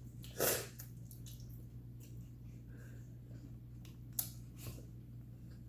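Eating sounds close to the microphone: a wet squelch about half a second in, a sharp click about four seconds in, and quieter mouth noises, over a steady low hum.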